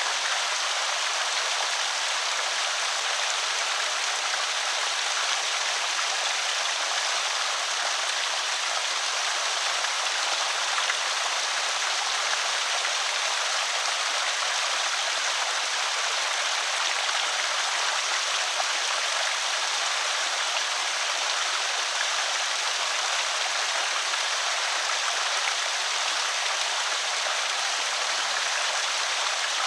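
Water spilling over a small creek spillway, a steady bright rushing trickle with no change.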